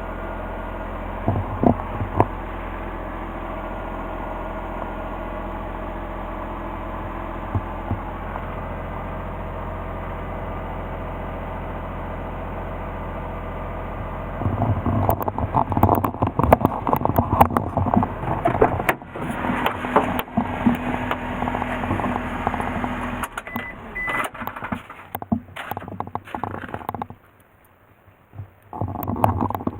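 Suzuki Carry kei truck's three-cylinder 660 cc engine running steadily, with a couple of knocks a second or two in. About halfway through, the steady running gives way to louder, uneven knocking and rattling noise that breaks off briefly near the end.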